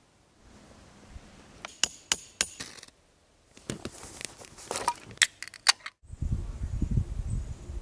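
Sharp clinks and taps of hard objects, metal or glass, in two short flurries. About six seconds in they stop abruptly and a steady low rumble takes over.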